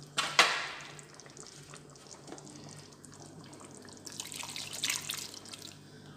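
Coconut milk being poured into a pot of simmering chicken curry: a sharp knock about half a second in, then a stretch of pouring, splashing liquid around four to five seconds in.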